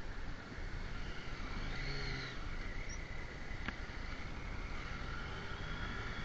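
Motorcycle engine running under way, with wind rushing on the microphone. A short pitched sound rises and falls about two seconds in, and a single sharp click comes a little past halfway.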